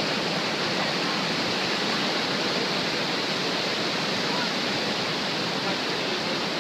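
River waterfall: a steady, even rush of falling water.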